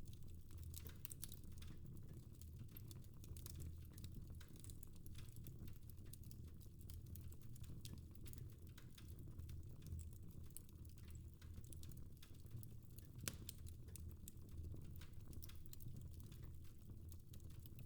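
Fireplace fire crackling softly: frequent small irregular pops, with a sharper snap about 13 seconds in, over a low steady hum.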